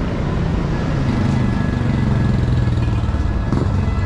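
Road traffic with a small engine running close by, its pitch drifting for a couple of seconds as it passes.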